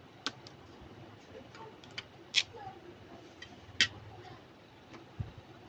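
A handful of sharp, irregularly spaced clicks and taps from small plastic miniature toy kitchen pieces being handled, the two loudest near the middle.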